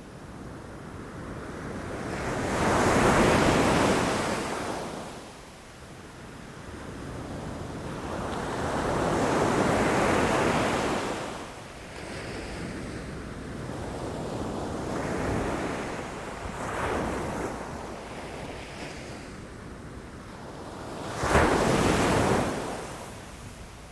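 Ocean waves breaking against rocks, the surf swelling and falling in slow surges, with a sharper, louder crash near the end.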